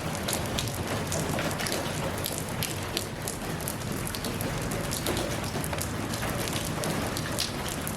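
Steady rain falling, with many individual drops pattering close by over an even hiss of rainfall.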